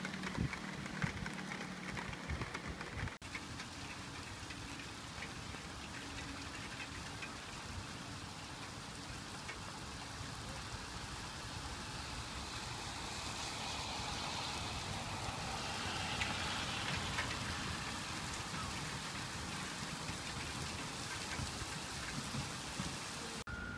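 Steady rain falling after a thunderstorm, with a brief break in the sound about three seconds in.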